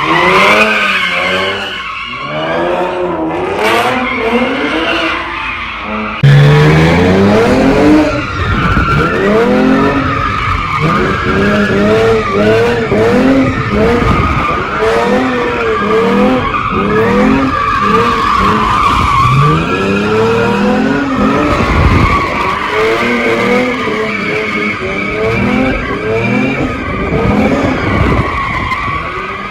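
A car spinning donuts: the engine revs up and down about once a second under continuous tyre squeal. It gets suddenly louder about six seconds in.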